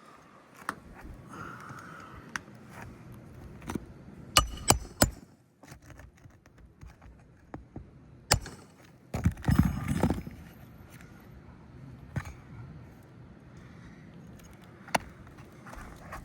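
Hand tools working on asphalt roof shingles during a shingle repair: scattered sharp knocks and clicks, three quick strikes about four seconds in, and a denser burst of knocking and scraping around nine to ten seconds.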